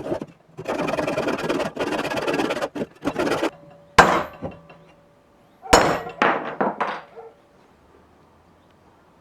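Hand-forged iron pick/hoe head being worked with hand tools: about three seconds of rapid scraping on the metal, then a sharp metallic clank with brief ringing about four seconds in. A second clank comes near six seconds, followed by a few lighter knocks.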